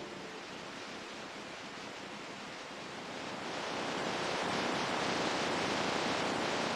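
Ocean surf: a steady rush of waves that swells louder about three seconds in as a wave washes in.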